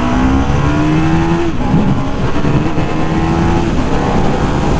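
2011 Ducati Multistrada 1200 S's L-twin engine accelerating hard on the road. Its pitch rises, drops at a gear change about a second and a half in, then climbs again and drops at a second shift about three-quarters of the way through. The engine revs freely now that its seized exhaust valve has been removed.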